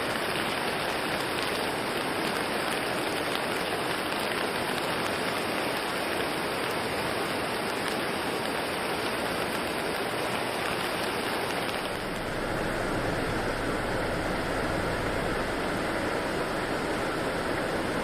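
Steady rushing noise of the Tonda River in flood, swollen by a typhoon, with rain. About twelve seconds in the sound turns duller and deeper.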